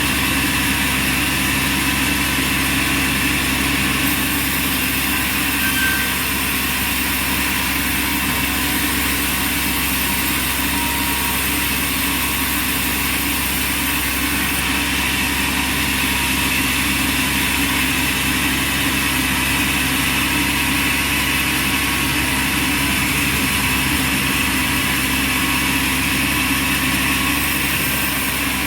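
Band sawmill running steadily, a constant machine drone with no pauses or changes.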